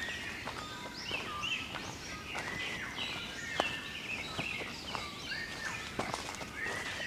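Several wild birds calling over one another: short arched and down-sweeping whistled notes recurring about once a second, with higher chirps above them.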